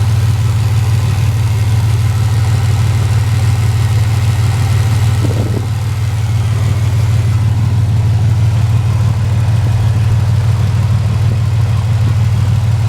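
A 1991 Ford Explorer's 4.0 L V6 idling steadily, loud through a muffler with a hole in it. One cylinder is missing, which the owner puts down to a fuel injector that needs cleaning.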